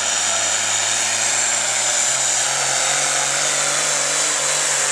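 Farm-stock diesel tractor engine running hard and steady at high revs under load, pulling the sled, its pitch rising a little about two seconds in.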